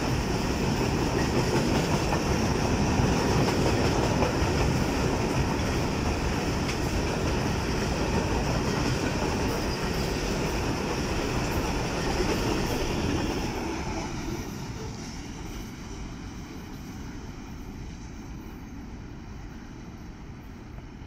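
Pakistan Railways freight train of covered wagons passing at speed, its wagon wheels running loudly over the rails. From about two-thirds of the way through, the sound fades as the last wagons go by and the train draws away.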